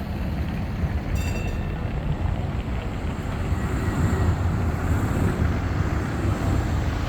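Škoda 52T tram running on street track, a steady low rumble that swells about halfway through as it passes. A brief high ringing tone sounds about a second in.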